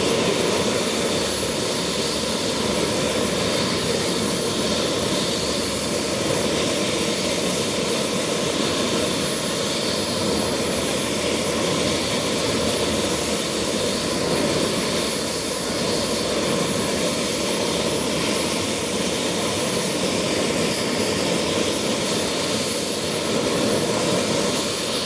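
Bell 222 helicopter with its twin Rolls-Royce 250-C30G turboshaft engines running steadily: an even turbine-and-rotor noise with a thin high whine held on one pitch.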